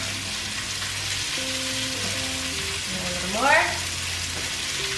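Chicken thighs frying in a pan with a steady sizzle. A brief rising tone sounds about three and a half seconds in.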